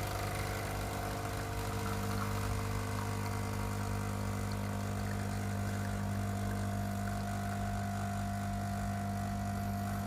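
Quick Mill Rubino espresso machine's vibratory pump humming steadily while it pushes water through the E61 group head to pull an espresso shot. It cuts off abruptly at the very end as the shot is stopped. The owner judges the shot's flow slightly too fast, meaning the grind is not yet dialled in.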